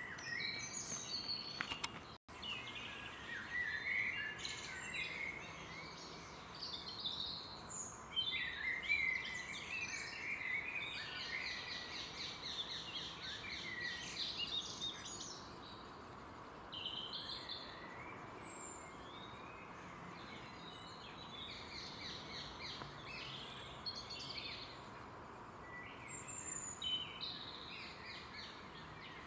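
Songbirds singing and chirping, several calls overlapping, with a long rapid trill around the middle, over a faint steady hiss. The sound cuts out for an instant about two seconds in.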